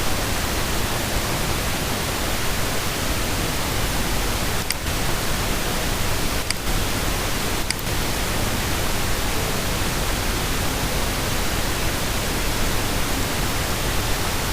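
Steady hiss of background recording noise, with a few faint clicks about five, six and a half, and eight seconds in.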